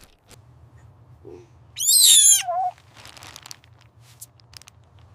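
A single high-pitched animal call about two seconds in, sliding down in pitch over most of a second, with soft rustles and clicks around it.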